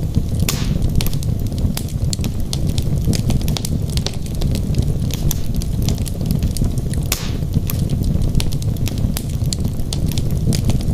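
Wood logs burning in a fireplace: a steady low rumble of flame with frequent sharp crackles and pops. Two louder, longer snaps come about half a second in and about seven seconds in.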